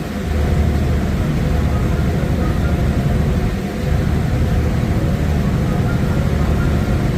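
A large engine running steadily, a continuous low drone with a faint hum above it.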